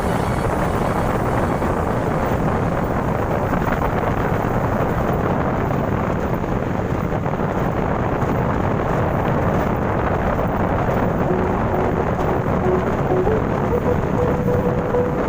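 A loud, steady rumbling noise with no clear pitch, like wind buffeting the microphone or a running vehicle, with a few faint short held tones near the end.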